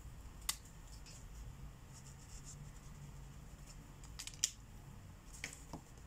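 Marker tips scratching across paper in short strokes, with a few sharp clicks, the loudest about four and a half seconds in.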